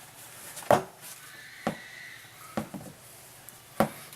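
Four sharp knocks or clicks, about a second apart, with a faint thin high tone partway through.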